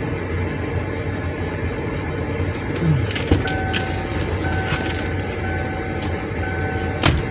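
Car driving slowly over a rough dirt track, heard from inside: a steady low rumble with scattered knocks and crunches as it bounces over the ground, one sharp knock a little over three seconds in and another near the end. From about three seconds in, an electronic beep sounds four times, each lasting close to a second.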